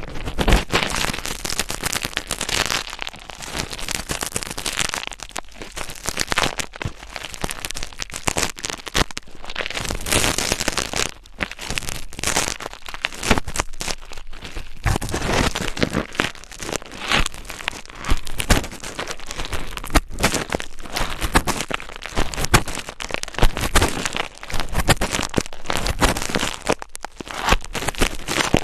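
Close-microphone ASMR trigger sounds: dense, irregular crackling and scratching rubbed right against the microphone, with brief pauses between passes.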